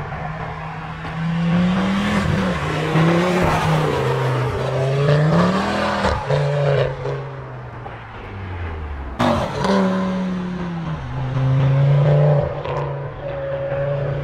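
Ford Focus ST225's turbocharged 2.5-litre five-cylinder engine revving up and falling back several times under hard driving, with a sharp crack about nine seconds in.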